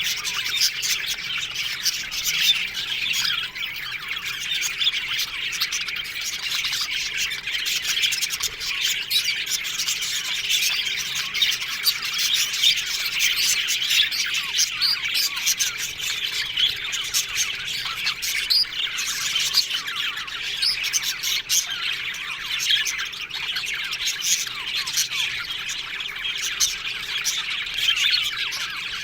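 A flock of budgerigars chattering together in an aviary: a steady mass of many overlapping chirps and warbles.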